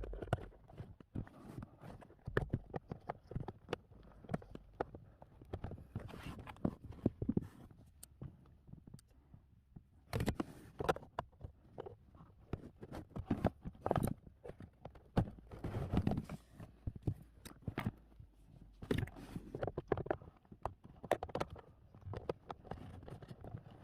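Irregular plastic clicks, knocks and scraping from hands working the interior trim and cabin air filter housing of a Mini Cooper F56 while the filter is being taken out.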